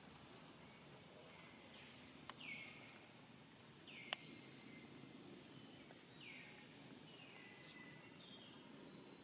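Faint outdoor background with a bird repeating a short call that falls in pitch, about every second or two. A sharp click comes a little after two seconds, and a louder one about four seconds in.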